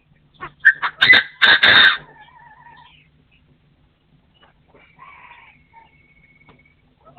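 Partridge calling: a loud burst of harsh, rapid crowing notes from about half a second to two seconds in, followed by fainter wavering whistled calls.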